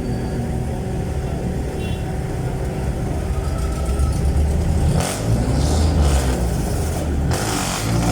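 Jeepney's Isuzu 4BC1 four-cylinder diesel engine running loud through its very loud aftermarket muffler, heard from aboard, getting louder as it pulls away about four seconds in. Short rushes of hiss come about five seconds in and again near the end.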